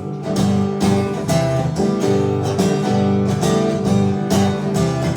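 Acoustic guitar strummed steadily in chords, about two strums a second, in an instrumental gap between sung lines of a live song.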